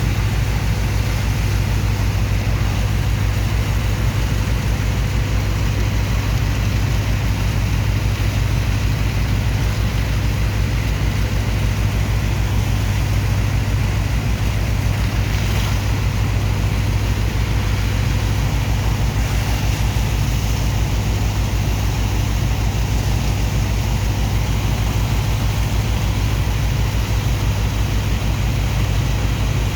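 Large diesel engine of a sand dredger's pump running steadily under load, a deep low drone with a fast even throb and a faint steady whine above it.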